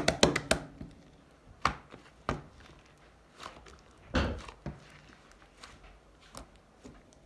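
Slime being squeezed and pressed by hand: a quick run of sticky clicks at the start, then scattered pops and squelches, the loudest about four seconds in.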